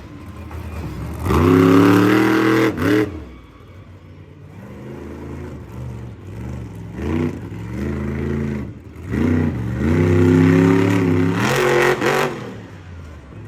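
Monster truck engine revving hard in repeated bursts: a loud surge about a second in, a short one around seven seconds, and a long one from about nine to twelve seconds, dropping back to a lower rumble in between.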